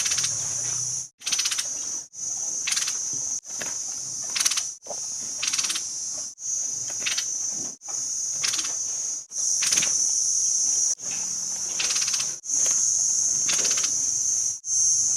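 High-pitched buzzing trill, repeated in phrases of about one and a half seconds with short breaks between them, with sharp chirps over it.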